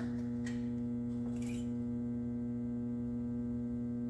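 A steady electrical hum at a constant pitch, with a couple of faint light clicks in the first second and a half.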